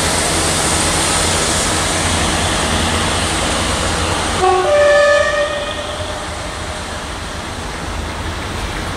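Diesel multiple unit running away along the line, its engine and wheel noise fading after about five seconds. About four and a half seconds in it sounds its two-tone horn briefly, a low note then a higher one.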